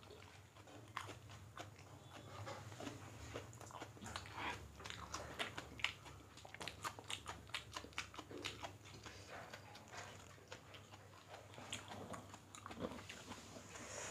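Faint chewing of two people eating rice and chicken curry by hand: many soft, irregular mouth clicks and smacks, busiest in the middle.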